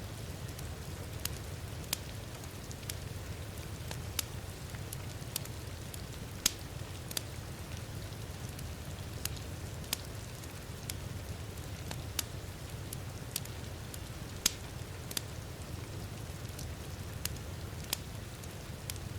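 Wood fire in a fireplace crackling, with sharp irregular pops about once or twice a second, a few much louder than the rest, over a steady low rumble and the even hiss of heavy rain.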